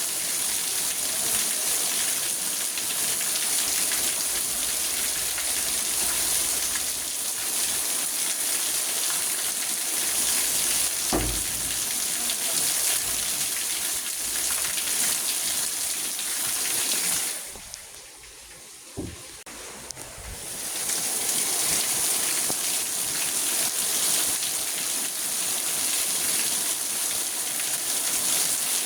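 Rain falling on a car, heard from inside it: a steady hiss of rain that drops away suddenly for about three seconds past the middle, then comes back. A couple of soft low thumps, one before the drop and one during it.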